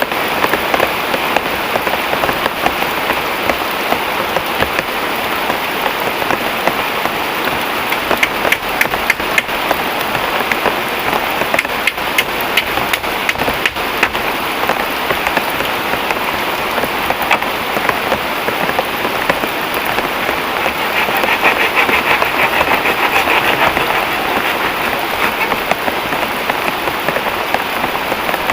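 Heavy rain falling steadily, with a dense patter of drops striking nearby surfaces; it swells slightly about two-thirds of the way through.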